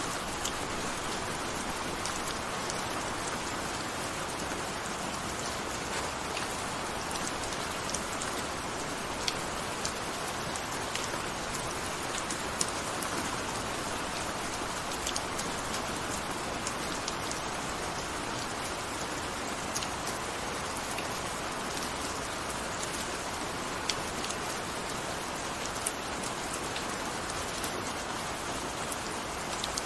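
Gentle steady rain: an even hiss of rainfall with scattered sharp drop ticks.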